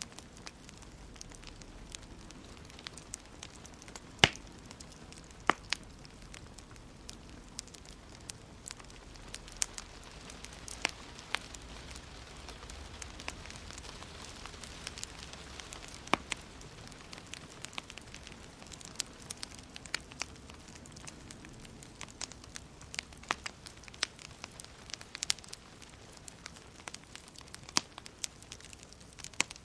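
Wood fire burning in a fireplace: irregular sharp crackles and pops over a soft steady hiss, with a few louder pops.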